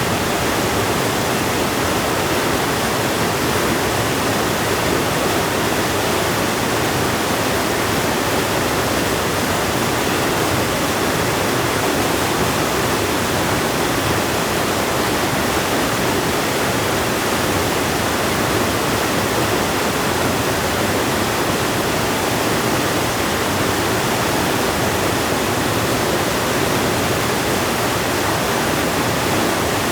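Flowing river water rushing steadily, an even unbroken noise.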